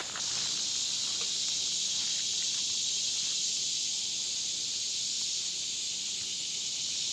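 Loud, steady high-pitched chorus of summer insects, swelling suddenly just after the start and holding level throughout, with a few faint rustling clicks in the first second or so.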